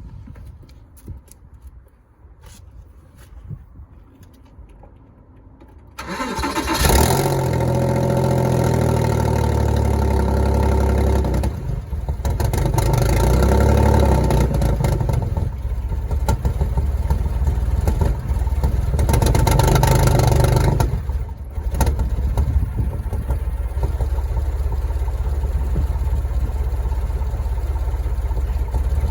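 Porsche Boxster engine cranked and catching about six seconds in, after a few faint clicks, then idling roughly and rising in pitch twice as it is revved. The rough idle is typical of a misfire, which the owner suspects is the engine running on only three cylinders.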